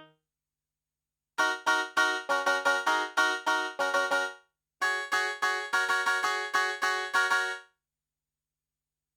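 Kurzweil K2000 synthesizer playing a bright, piano-like keyboard factory program, dry with no effects. Two quick phrases of many short notes start about a second and a half in, with a brief gap between them, and stop near the end.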